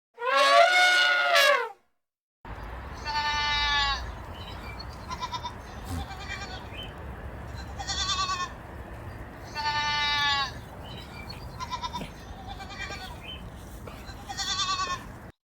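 Animal calls of the bleating kind. One loud call comes first, then after a short break a new clip follows in which several calls repeat over a steady background hiss, the longer ones every few seconds.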